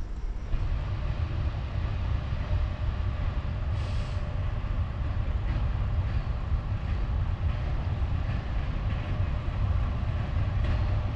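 Steady low rumble of a train approaching the station from a distance, with a brief high hiss about four seconds in.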